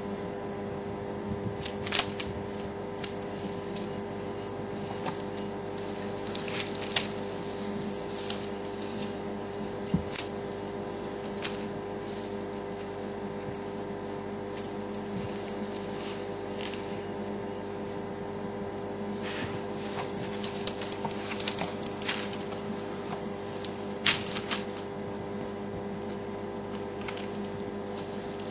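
Scattered sharp snaps and crackles of branches and brush as elephants move and push through thick bush, over a steady mechanical hum.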